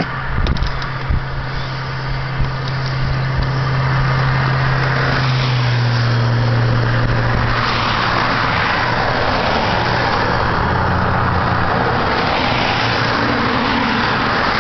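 Engine and road noise heard from inside a moving car: a steady low engine hum under a wash of road and wind noise. About five seconds in the noise grows louder and the hum steps lower.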